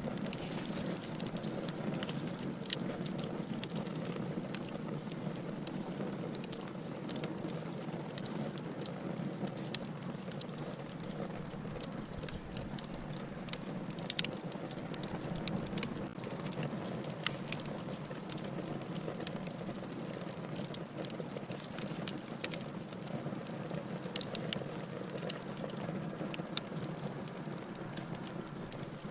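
Wood fire crackling in a fireplace: a steady low rush of burning, with frequent sharp irregular pops and snaps.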